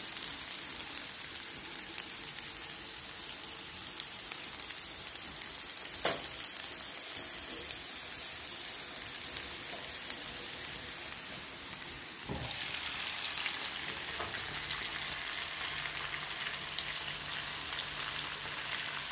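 Chicken legs frying in olive oil in a pan, a steady crackling sizzle. A knock about six seconds in and another about twelve seconds in, after which the sizzle gets louder.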